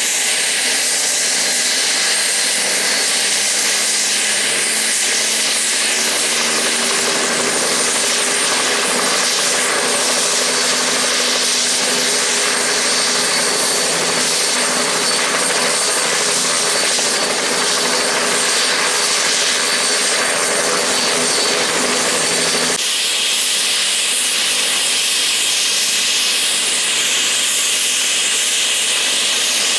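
Helicopter running close by: a loud, steady rushing noise of rotor and engine with a faint high whine. The sound changes abruptly about 23 seconds in but carries on just as loud.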